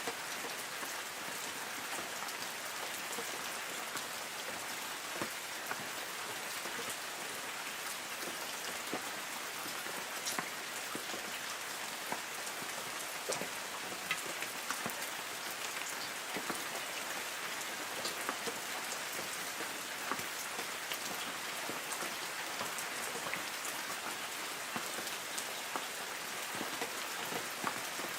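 Light rain falling on forest trees: a steady hiss with many scattered individual drops pattering and ticking on leaves.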